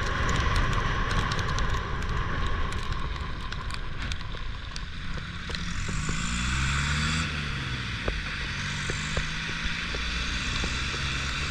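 Heavy rain falling, with scattered drops ticking close to the microphone. About halfway through a vehicle engine comes in, its pitch rising and then falling.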